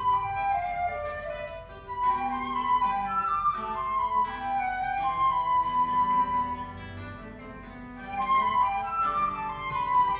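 Flute and classical guitar playing a duo: the flute carries a flowing melody of rapid notes over plucked guitar notes, growing softer for a moment about two thirds of the way through before coming back up.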